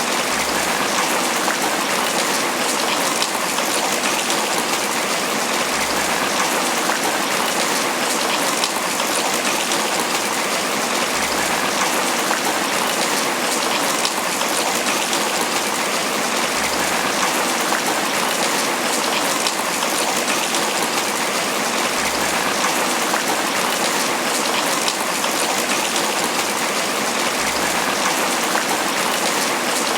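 Steady tropical rain pattering on banana leaves, a dense even hiss of drops with many fine individual drop ticks.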